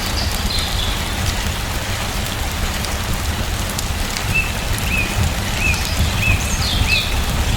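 Steady rain with a deep low rumble underneath. In the second half a bird chirps a run of about five short, evenly spaced notes, then a couple of higher calls near the end.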